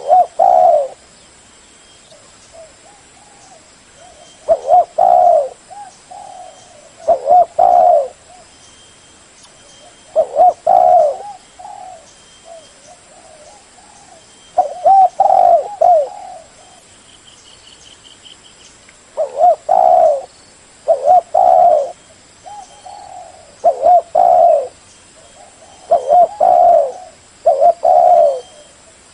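Spotted dove cooing: a repeated low phrase of two or three coo notes, loud and coming every two to three seconds.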